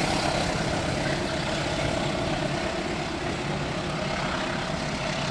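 A train running past the trackside with a steady, continuous rumble of wheels on rails.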